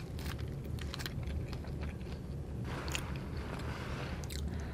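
Close-miked chewing and mouth sounds from eating soft popover bread: scattered small wet clicks, with a denser patch of chewing about three seconds in, over a steady low hum.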